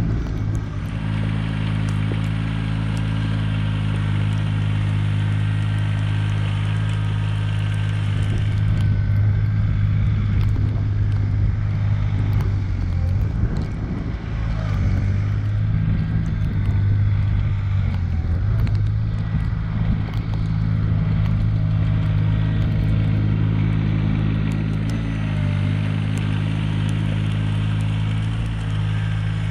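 Mahindra eMax 20S HST compact tractor's diesel engine running steadily, its pitch dipping briefly a few times.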